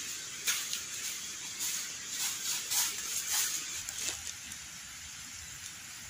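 Steady hiss of rain, with a handful of short, louder splashy taps in the first four seconds.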